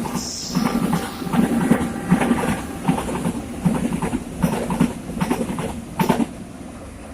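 Train running past, its wheels clacking over the rail joints in an uneven run of clacks that thins out and fades about six seconds in.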